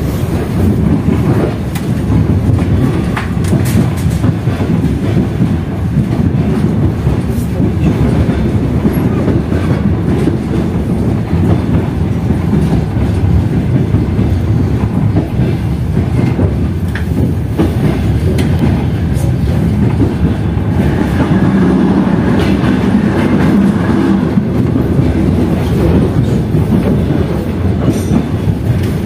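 Passenger train carriage rolling along the track: a steady low rumble with the wheels clicking over the rail joints.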